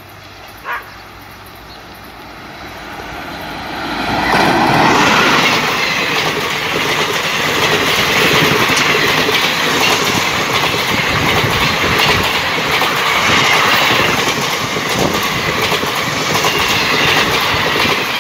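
Passenger train of Indian Railways ICF coaches passing close at speed. It grows louder over the first four seconds, then gives a loud, steady rush with the wheels clattering over the rail joints.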